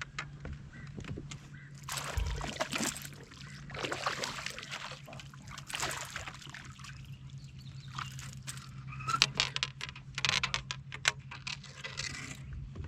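Water splashing and sloshing around a fishing kayak in irregular bursts, over a steady low hum.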